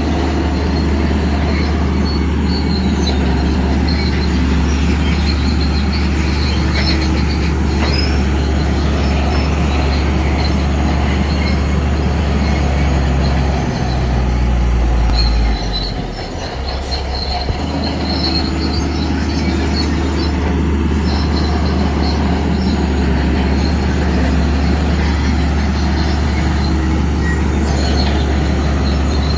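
Shantui crawler bulldozer working: steady diesel engine hum with the high squeal and clank of its steel tracks. The engine note changes and dips briefly about halfway through, then steadies again.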